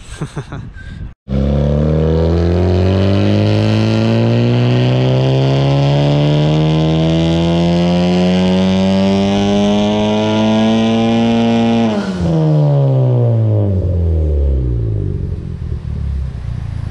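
Turbocharged car engine making a full-throttle pull on a chassis dynamometer: the revs climb steadily for about ten seconds, then drop sharply as the throttle closes and the engine winds back down.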